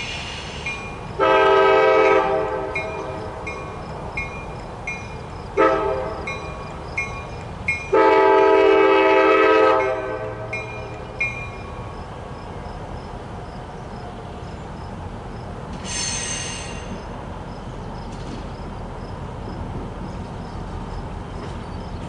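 CSX diesel locomotive running light, sounding its multi-chime horn in the grade-crossing pattern: a long blast, a short one, then a final long blast that ends about ten seconds in. A crossing bell dings evenly under the horn until about twelve seconds in, the engine rumbles past, and there is a brief high squeal later on.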